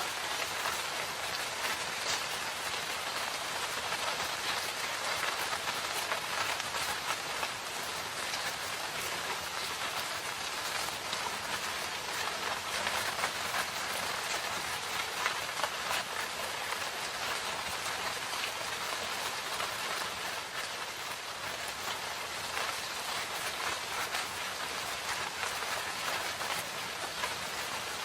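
Steady rain falling in a forest: an even hiss of rainfall with many separate drops ticking through it.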